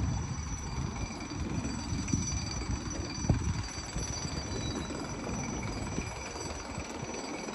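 Old railroad drawbridge getting ready to move: a steady high-pitched warning tone over a low rumble, with a single knock about three seconds in.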